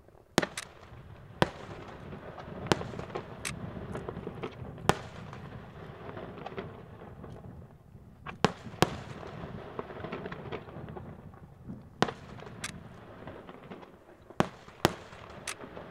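Aerial firework shells bursting: about a dozen sharp bangs at uneven intervals, some in close pairs, over a continuous low rumble.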